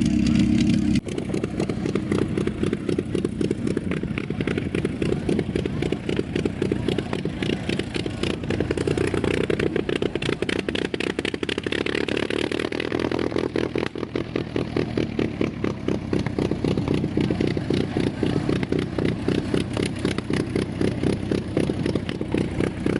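A vehicle's engine running close by with a rapid, even firing beat that changes suddenly about a second in and then holds steady.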